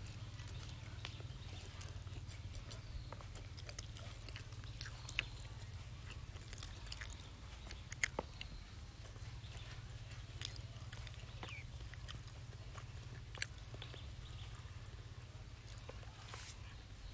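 Quiet chewing and mouth sounds of a boy eating a boiled egg, with scattered small clicks and a few sharper ones, the loudest about eight seconds in, over a steady low rumble.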